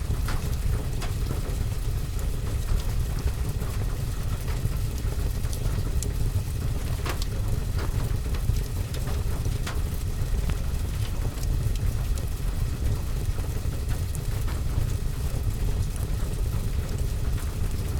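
Steady rain with a crackling wood fire: a constant low rumble under a haze of rain, with scattered sharp pops and clicks from the fire.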